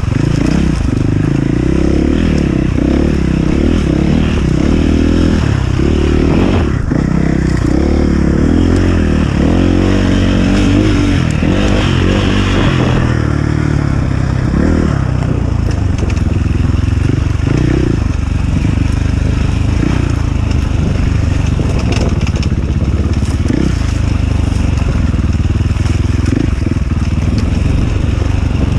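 Enduro dirt bike engine running hard, its revs rising and falling again and again, with occasional knocks and clatter.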